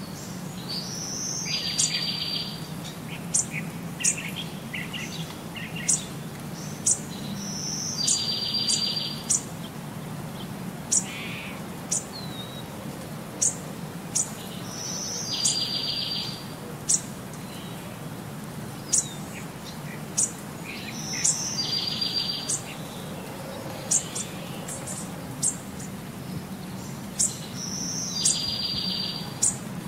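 Birds calling and chirping: a trilled call that comes back about every seven seconds, with short, sharp high chirps in between, over a steady low hum.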